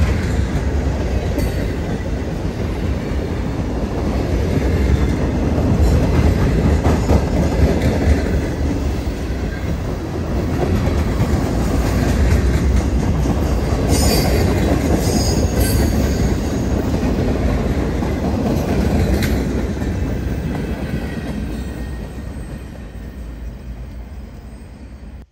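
Freight train of gondola cars rolling past at close range: a steady rumble and clatter of steel wheels over the rail, with a few brief high wheel squeals in the second half. It fades near the end as the last car moves away.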